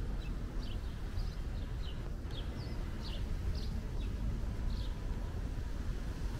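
A small bird chirping in short, high notes, about two a second, over a steady low rumble of street traffic.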